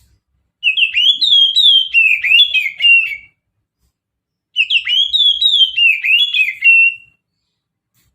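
Oriental magpie-robin (kacer) singing two phrases of rapid, varied whistled notes, about a second apart.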